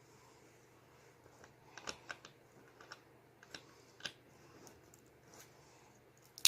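Plastic Lego bricks clicking as they are handled and pressed into place: a scattering of light clicks, with a sharper click at the very end.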